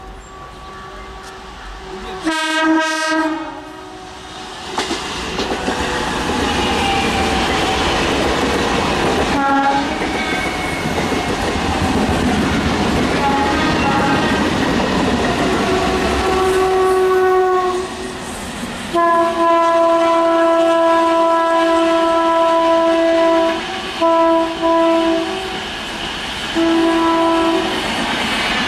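Trains running through a station: the rumble and wheel clatter of a suburban EMU local passing, with several train horn blasts. One short blast comes a couple of seconds in; a long blast held for several seconds follows near the end, then shorter toots.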